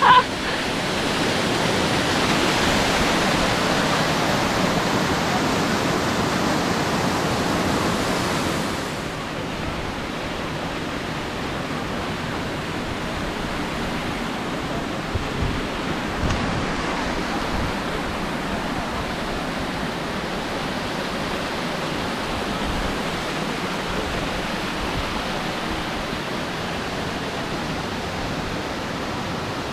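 Waterfall rushing, a steady wash of falling water. About nine seconds in it turns a little quieter and duller, then holds steady.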